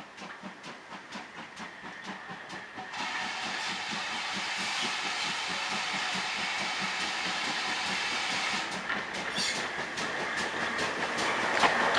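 Steam locomotive working along the line with a quick regular beat, about four a second. About three seconds in, a loud steady hiss of steam sets in, and the whole sound keeps growing louder as the locomotive comes closer.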